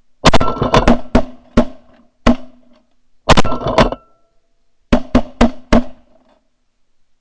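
A volley of shotgun blasts from several waterfowl hunters firing at once: more than a dozen sharp shots in quick clusters. The shots stop about six seconds in.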